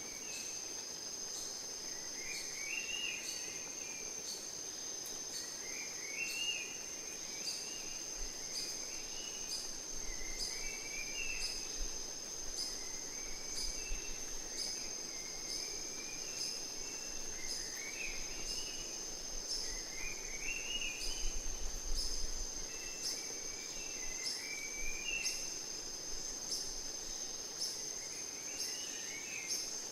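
Rainforest ambience: insects keep up a steady high-pitched trill while a bird repeats a short warbling phrase about every three seconds. Faint regular clicks run beneath, and a low rumble rises for a while in the middle.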